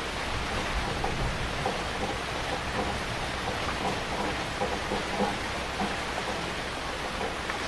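Heavy rain falling steadily, a dense even hiss with many individual drops splashing on surfaces.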